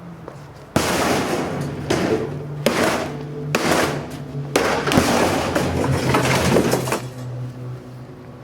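Refrigerator being smashed: a string of heavy blows with breaking glass and clattering shards, starting about a second in and dying down near the end.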